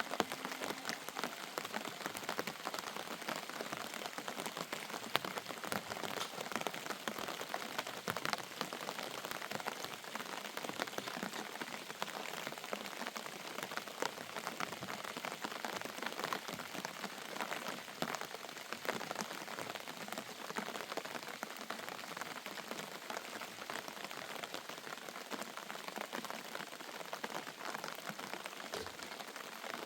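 Steady rain falling, with many individual drops pattering on surfaces.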